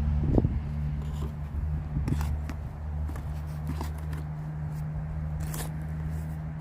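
Hands scraping and rustling through moist potting soil in a container while digging out sweet potatoes: a series of short, scratchy scrapes, over a steady low hum.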